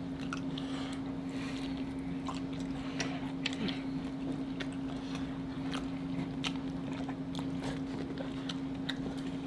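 Close-miked eating sounds: chewing with scattered small wet mouth clicks, over a steady low hum.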